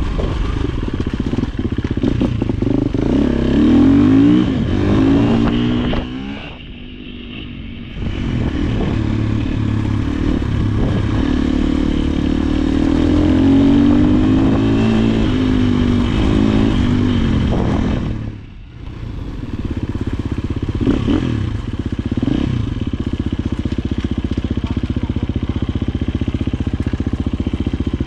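Dirt bike engine on a trail ride, repeatedly revving up and easing off, with the sound dropping away briefly twice, about six seconds in and again near the middle.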